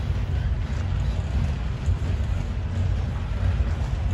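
Norfolk Southern freight train rolling past, a steady low rumble.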